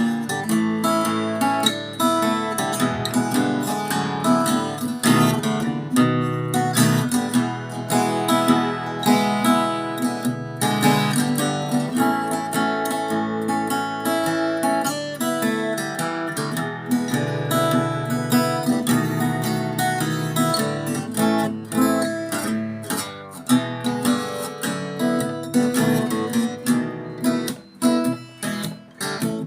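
Handmade acoustic guitar being played for a sound test, a steady run of strummed chords and picked notes; near the end the strokes come further apart and ring out between them.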